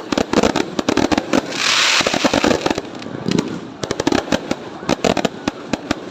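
Fireworks going off: a dense, irregular run of bangs and crackles, with a brief hiss about a second and a half in.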